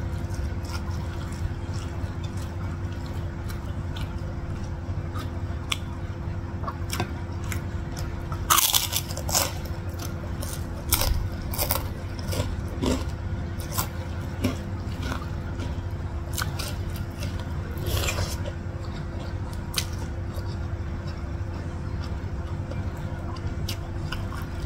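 Close-up eating sounds of someone chewing rice, noodles and meatballs eaten by hand: wet chewing and mouth clicks, with a few louder crunches and smacks about 9 seconds in and again about 18 seconds in. A steady low hum runs underneath.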